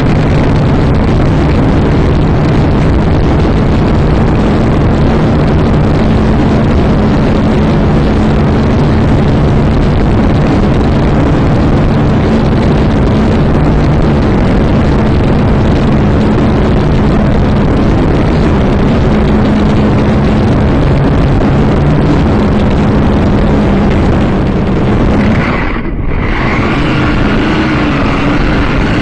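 Syma X5C-1 quadcopter's small electric motors and propellers humming steadily under heavy wind noise on the microphone. About 26 seconds in the sound briefly drops, then comes back with a higher whine.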